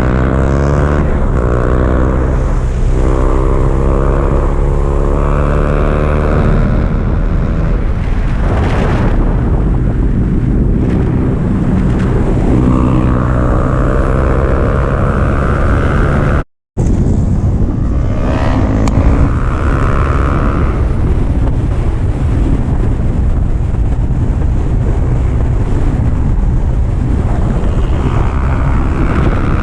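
Sport motorcycle engine revving up through the gears at speed, its pitch climbing, falling back at each shift and climbing again, under heavy wind rushing over the microphone. The sound drops out completely for a moment about halfway through.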